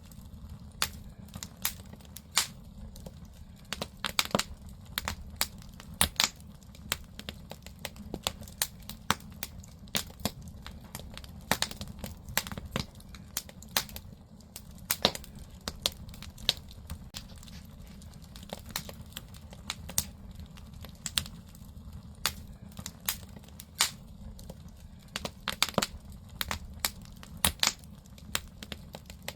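Firewood burning in a traditional Korean agungi firebox: irregular sharp crackles and pops over a steady low rumble of the fire.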